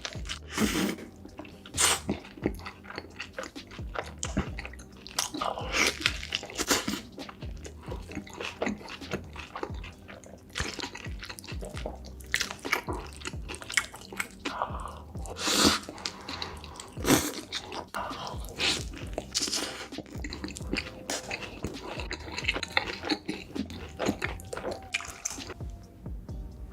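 Close-miked mukbang eating: wet chewing, biting and squishing of sauce-covered food in irregular bursts, with faint music underneath.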